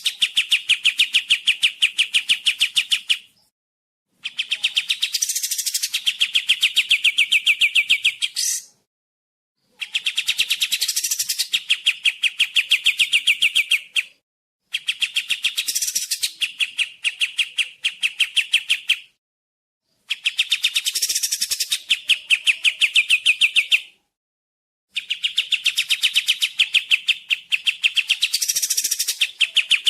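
Kapas tembak (white-shouldered triller) song: a series of phrases of about four seconds, each a fast run of repeated high, bright notes, with short pauses between them.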